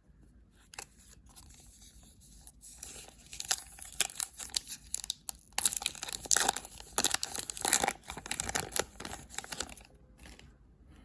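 A hockey card pack's wrapper being torn open and crinkled, a dense irregular crackle that starts a couple of seconds in and dies down near the end.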